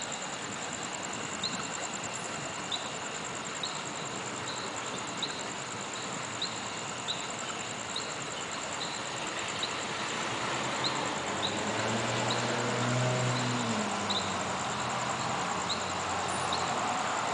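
Crickets calling: a steady high trill with a shorter chirp repeating about once a second. From about ten seconds in, a passing car's low engine hum rises under them and fades again.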